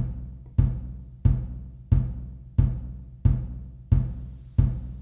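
Music: a deep drum struck in a slow, steady beat, about three hits every two seconds, each hit booming and fading away before the next.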